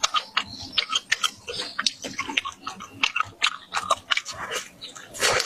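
Close-miked chewing and lip-smacking of a person eating sausage, a dense run of irregular wet clicks and smacks.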